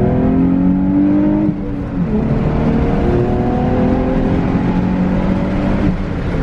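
Nissan 350z's 3.5-litre V6 accelerating hard, revs climbing. The revs drop at a gear change about one and a half seconds in, climb again, and drop at another change near the end. It pulls cleanly with no misfire, now that it has new spark plugs, a new coil pack and a cleaned mass airflow sensor.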